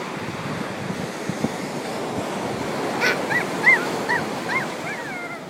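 Atlantic Ocean surf washing steadily, with wind on the microphone. About three seconds in, a quick run of five or six short, high, rising-and-falling calls starts, the last one sliding down.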